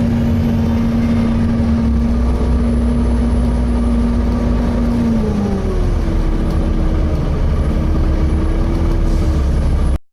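Volvo B7TL double-decker bus running, heard from on board: a low rumble with a steady whine. About halfway through, the whine drops in pitch and a higher whine takes over. The sound cuts off abruptly near the end.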